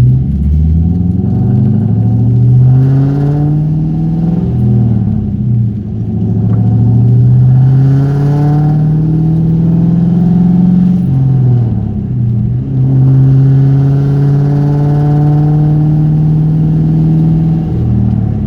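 1998 Mustang Cobra's 4.6-litre DOHC V8 accelerating through the gears. The pitch climbs with the revs and drops back at each upshift, twice, then holds fairly steady before dropping near the end. The engine is still cold and has none of the tapping it develops once warm.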